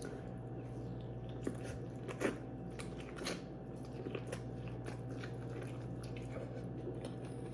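A person biting and chewing food close to the microphone: scattered small wet clicks and crunches, over a steady low hum.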